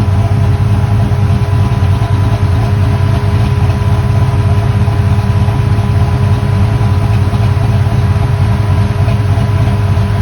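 Chevy car engine running steadily with an even low rumble.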